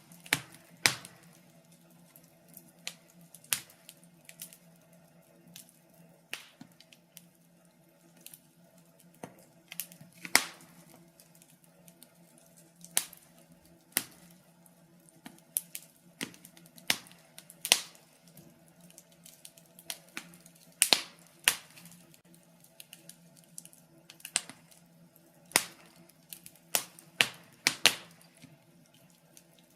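Wood fire crackling: burning logs giving off irregular sharp snaps and pops, a few louder than the rest, over a faint steady hum.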